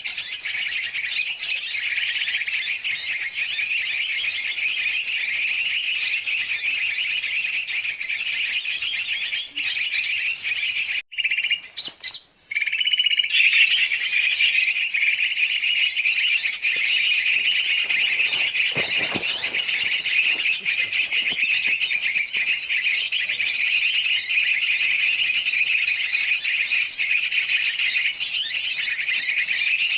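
Bird-lure recording of a noisy mix of many birds calling at once, large and small species together, in a dense continuous chorus, made for luring yellow-vented bulbuls (trucukan). The chorus breaks off briefly about eleven seconds in, then resumes with more of it in lower-pitched calls.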